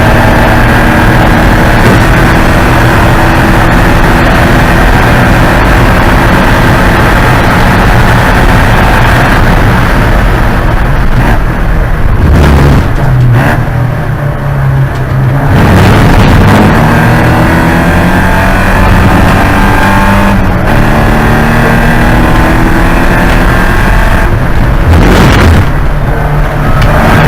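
Porsche 944 Spec race car's four-cylinder engine running hard at high revs, very loud. The engine note drops and changes twice, about halfway through and again near the end, then climbs back up.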